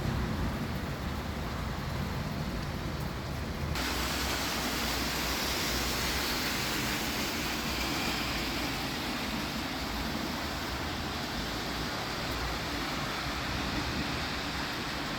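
Rain falling, a steady hiss that abruptly gets brighter about four seconds in.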